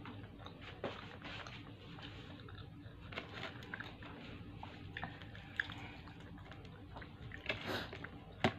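A person chewing and biting into KFC fried chicken, with scattered small crunches and clicks; a sharper click comes near the end.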